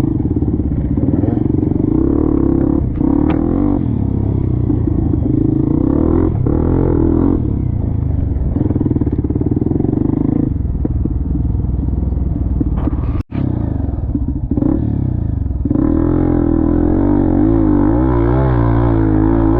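Off-road trail motorcycle engine running under load, its revs rising and falling, with some clatter. The sound cuts out abruptly for a moment about 13 seconds in.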